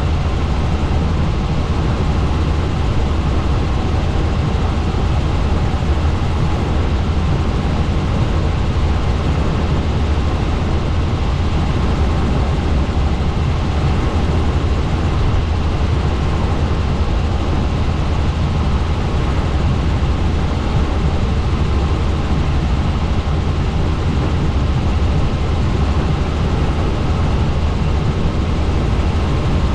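Helicopter in flight, heard from on board: a steady, loud drone of rotor and engine, heaviest in the low end, with a fast, even beat from the rotor blades.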